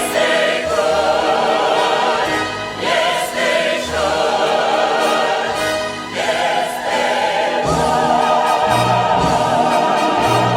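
Singers holding long notes with vibrato over a pit orchestra: the closing phrases of a musical-theatre song.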